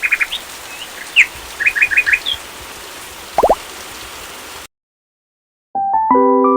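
Small birds chirping in short, high calls and quick runs of three or four notes over a steady background hiss. The ambience cuts off suddenly, and after about a second of silence, piano-like background music starts near the end.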